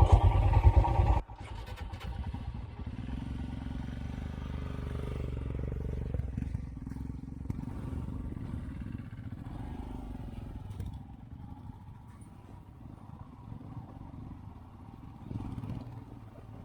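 Royal Enfield Himalayan single-cylinder motorcycle engine running as the bike rides along a dirt track. It is loud for about the first second, then drops abruptly to a quieter, steady engine note with scattered small clatters.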